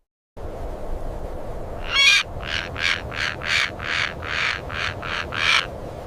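A bird giving a quick series of about ten short, harsh calls, roughly three a second, over a steady background hiss.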